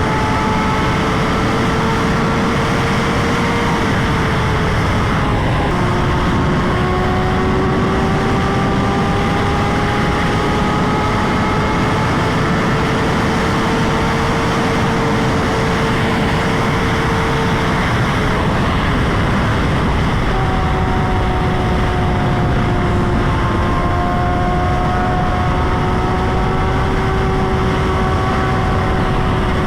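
Motorcycle engine running at a steady cruise under heavy wind rush on the microphone. The engine note drifts slowly and steps down in pitch twice, about four seconds in and again about eighteen seconds in.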